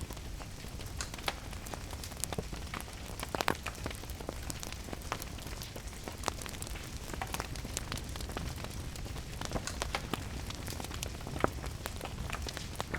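Wood fire crackling with irregular sharp pops, two of them louder, about three and a half seconds in and near the end, over a steady hiss of rain and a low rumble.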